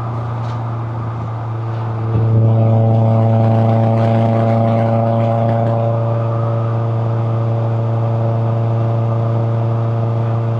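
Toyota AE86 Corolla Levin's 1.6-litre twin-cam inline-four (4A-GE) running at steady, moderate revs while driving. It eases off briefly at first, then gets louder about two seconds in as the throttle opens, and holds an even pitch after that.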